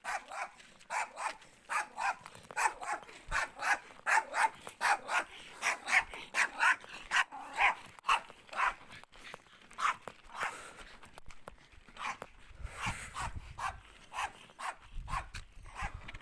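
A dog barking over and over, about two to three barks a second, the barks thinning out in the last few seconds. A low rumble comes in twice near the end.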